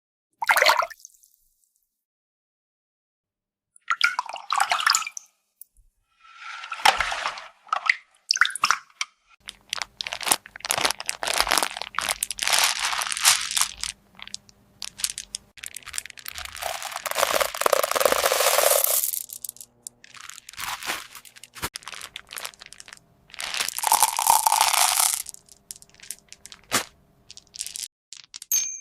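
Hands playing with small plastic water toys: irregular bursts of handling noise and clicks mixed with water sounds, with pauses between them and a few seconds of silence near the start.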